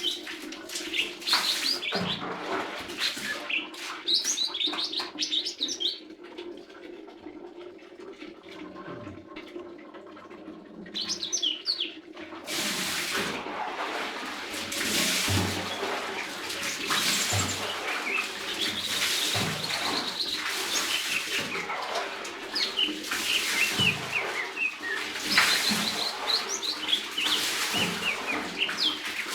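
Leafbird singing: quick runs of high chirps and short twittering phrases, quieter for a few seconds in the first half, with a steady hiss behind the song from about halfway on.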